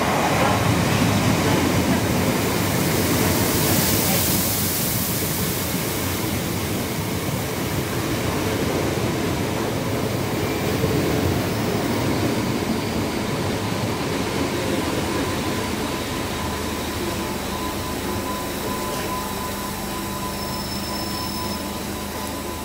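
Southeastern electric multiple-unit train running in along the platform and slowing as its carriages pass close by, loudest in the first few seconds and gradually fading. A faint thin squeal, typical of brakes, comes in over the last several seconds.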